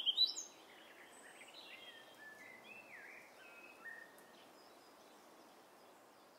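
Small birds singing and chirping, loud for the first half second, then fainter scattered calls over a steady hiss of outdoor ambience that dies away near the end.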